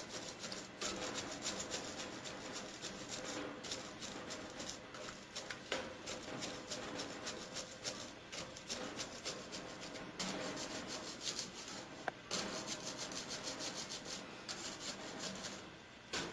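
Scrub brush scrubbing the metal grating bars of a bird cage floor: rapid back-and-forth rubbing strokes of bristles over the bars, with brief pauses about ten and twelve seconds in.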